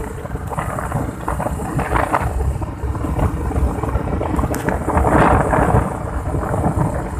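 Wind buffeting the microphone over the road noise of a moving motorbike: a steady low rumble with irregular gusty surges.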